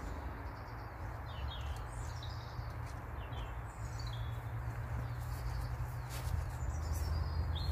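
Small songbirds chirping in short, quick falling phrases, repeated every second or two, over a low steady rumble.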